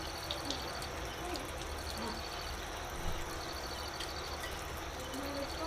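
Steady background hiss with a faint, high, rapidly pulsing chirp that comes and goes in short runs, and a few brief faint vocal sounds.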